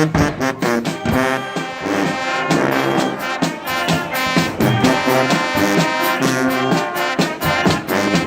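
High school band playing a brass-led tune, trombones and trumpets over drums keeping a steady beat.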